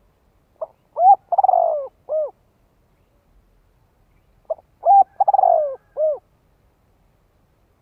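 Spotted dove cooing: two identical phrases about four seconds apart, each a short note followed by three coos, the middle one longer and falling in pitch.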